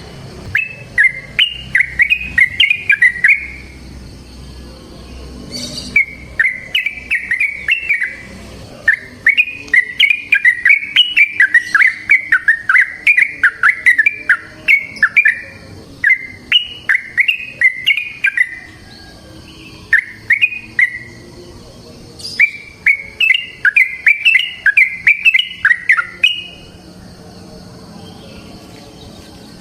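Yellow-vented bulbul singing: repeated phrases of quick, chattering notes, each a second to several seconds long, with short pauses between them.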